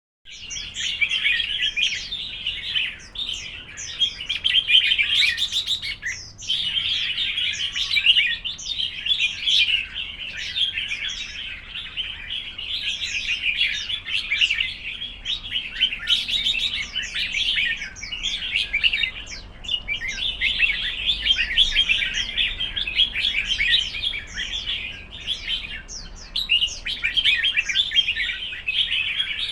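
Red-whiskered bulbul song: rapid, busy chirping and warbled phrases, nearly continuous with a few short pauses.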